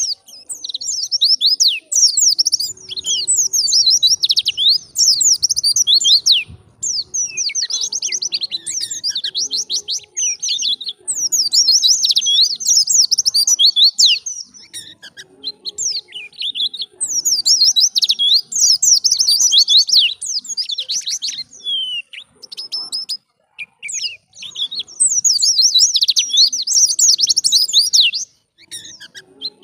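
A white-eye (pleci) singing a fast, high warbling song of rapid down-slurred notes, in long bursts broken by brief pauses.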